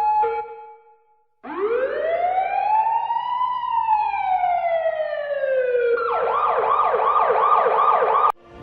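An emergency vehicle siren. A two-tone hi-lo pattern fades out at the start, then after a brief gap a wail rises from low to high and slowly falls. About six seconds in it switches to a fast yelp of about three to four sweeps a second, which cuts off abruptly near the end.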